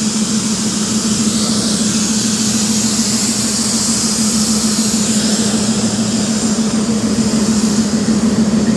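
Indian Railways express train moving along the platform: a steady engine drone over the rushing rumble of the passing coaches.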